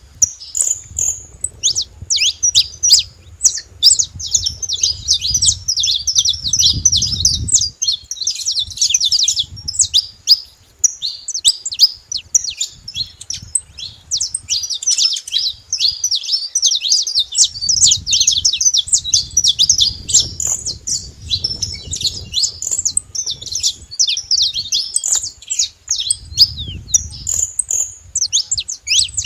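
Wild saffron finches singing, a fast run of high, sharp chirps with hardly a break, over a low rumble.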